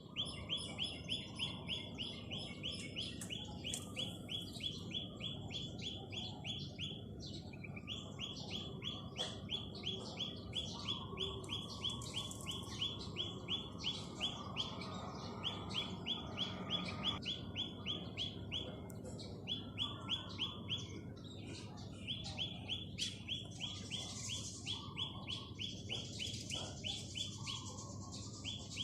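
Birds singing: one bird repeats a short, identical note in a rapid, evenly spaced run, breaking off briefly a few times, while other birds chirp over it. Low steady background noise underneath.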